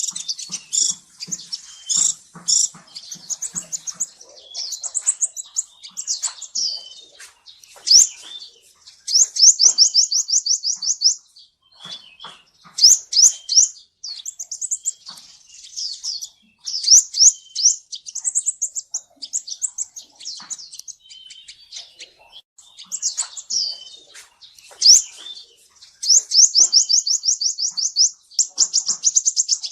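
Olive-backed sunbird (kolibri ninja) singing: a stream of high-pitched chirps broken by fast, evenly spaced trills of a second or two, repeated again and again.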